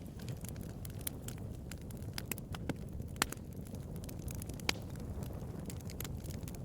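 Wood bonfire crackling: irregular sharp pops and snaps over a steady low rumble, with two louder pops about three and four and a half seconds in.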